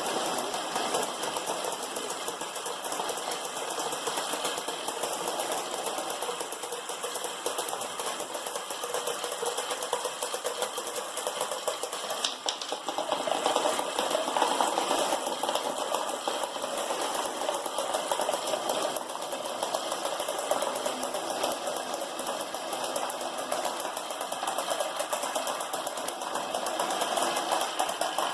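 Many glass marbles rolling and clattering down a marble run in a dense, continuous rattle of rapid clicks.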